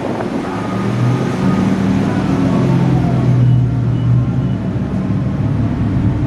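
Car engines and exhausts rumbling as cars roll into the meet, a loud low drone that swells about a second in.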